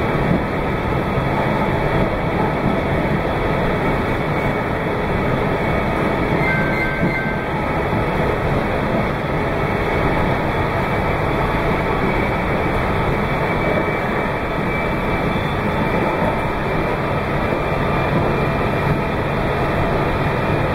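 Meitetsu 2200 series electric train running at speed: a steady noise of wheels on rail and running gear, heard from inside the front car.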